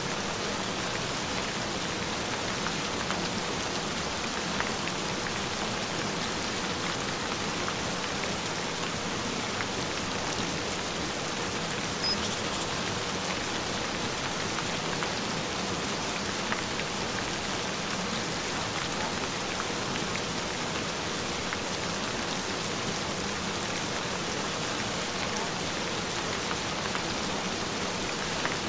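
Steady, gentle rain falling, with scattered drop ticks and a faint steady tone underneath.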